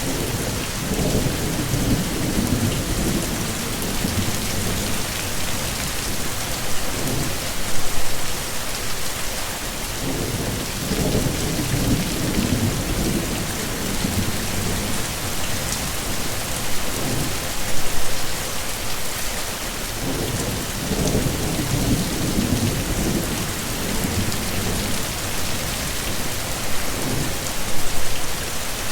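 Heavy, steady rain with low rolls of thunder that come back about every ten seconds, each rumbling for a few seconds.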